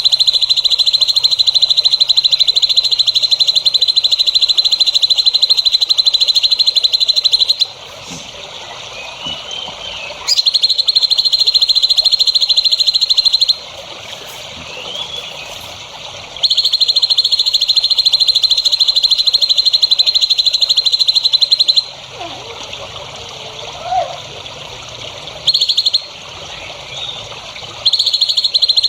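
A rapid, high-pitched buzzing trill in long bouts, stopping for a few seconds at a time and starting again. In the gaps, softer bird chirps and short calls are heard.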